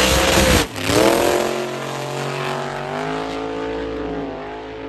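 Car engine accelerating hard with revs climbing, a brief break about two-thirds of a second in like a gear change, then pulling up through the revs again and slowly growing quieter.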